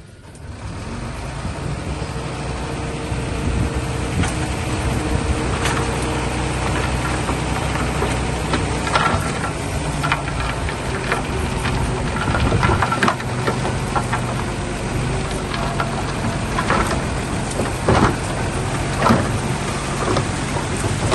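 Bulldozer's diesel engine running steadily at work, with sharp metallic clanks now and then in the second half.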